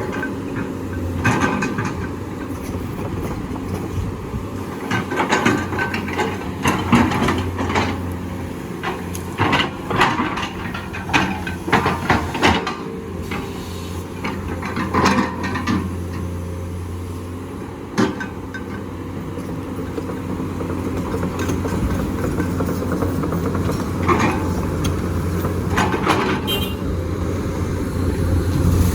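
Heavy excavator's diesel engine running steadily under load, with repeated clanks, knocks and scrapes of the steel bucket on rock and gravel as it digs and loads sediment.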